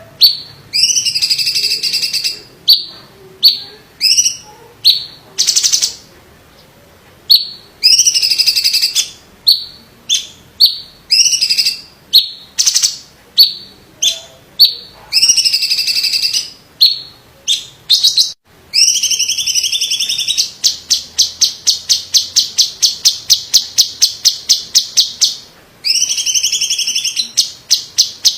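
Cucak cungkok (a leafbird) singing loudly: a string of clear, sliding whistled phrases separated by short pauses. From about two-thirds of the way in comes a fast run of rapid repeated notes, roughly ten a second, lasting several seconds before the whistled phrases resume.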